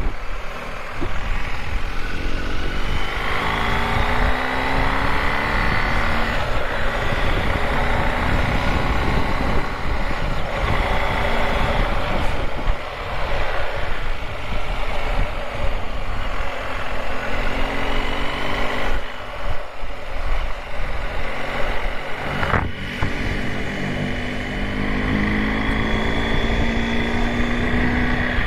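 BMW GS Adventure motorcycle's boxer-twin engine under way, rising in pitch as it accelerates and dropping back at several gear changes.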